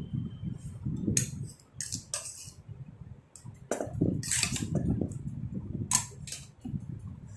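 Scattered clicks and scrapes of kitchen utensils, busiest about four seconds in, over a low background rumble.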